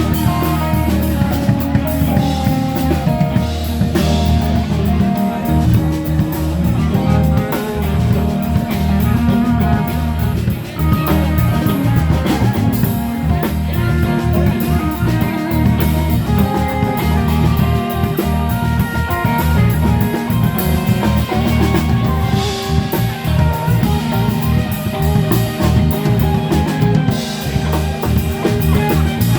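Live band playing an instrumental passage: electric guitar lines over drum kit and bass, with cymbal crashes.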